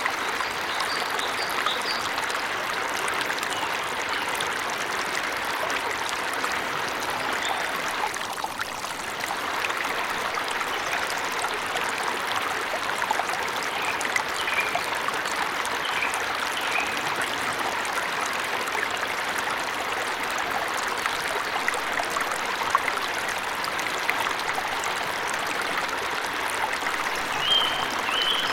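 Steady rushing of falling water, with a few brief bird chirps over it, the clearest near the end.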